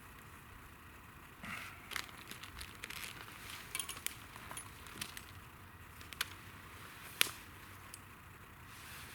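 Wood campfire crackling, with irregular sharp pops and snaps over a faint hiss of burning.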